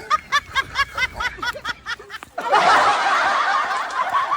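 Laughter: a quick run of short 'ha' syllables, about five a second, then, a little past halfway, louder and denser laughter of many overlapping voices, like a canned laugh track.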